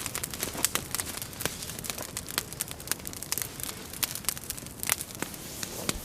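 Campfire of burning kindling and thin poles crackling with many irregular sharp pops.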